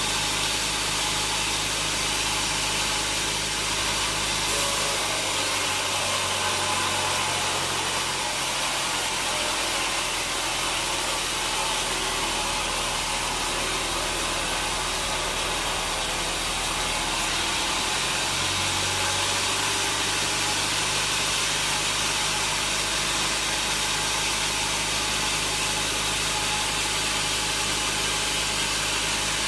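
Sawmill machinery running steadily with an engine-like hum and a hiss above it. The low hum shifts in pitch about a fifth of the way in and again a little past halfway.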